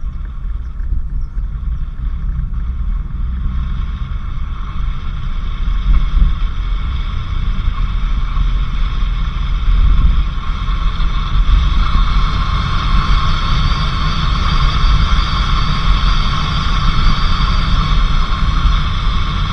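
Vehicle driving along a dirt road: a steady low rumble of engine and tyres, with a higher hiss that grows louder about twelve seconds in.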